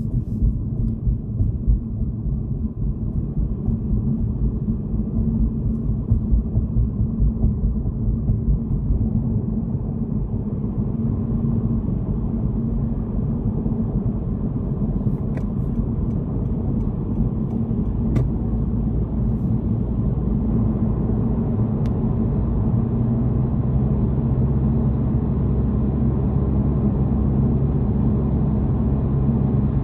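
Car driving: steady road and engine rumble heard from inside the cabin, getting a little louder partway through.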